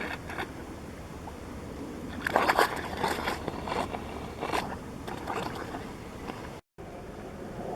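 Geothermal mud pot bubbling: carbon dioxide bubbles bursting through wet mud in a string of wet pops and gloops, thickest from about two to five seconds in, over steady background noise.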